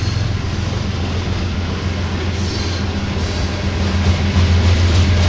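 Loaded flatcars of a BNSF manifest freight train rolling past, a steady low rumble of wheels on rail with a brief faint wheel squeal about halfway through.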